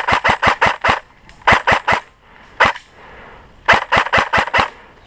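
Airsoft electric guns firing in short bursts of rapid sharp cracks, with a single shot in the middle.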